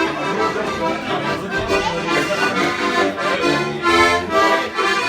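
Traditional-style music led by an accordion, playing sustained chords that change in a steady rhythm.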